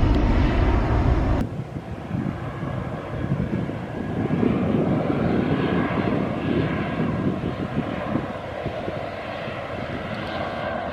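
Airliner engines running: a loud low rumble that cuts off suddenly about a second and a half in, then a quieter, steady engine noise with a faint whine.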